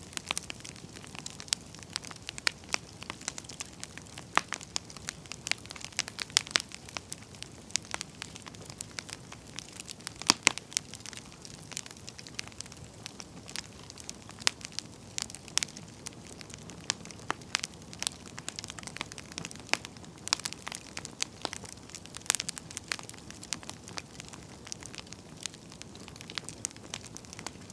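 Wood campfire burning, with irregular sharp crackles and pops from the firewood over a soft steady hiss of the flames.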